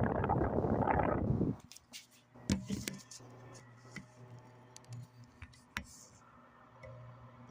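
Mondial Premium wall fan blowing air across the microphone with a dense rush that cuts off abruptly about a second and a half in. A few sharp clicks and a faint steady hum follow.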